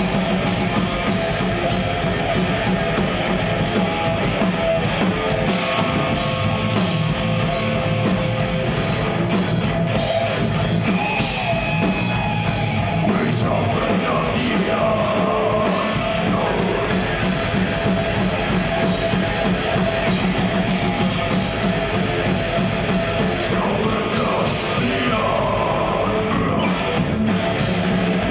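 A progressive death metal band playing live, with heavy guitars and a drum kit. The sound is loud, dense and continuous.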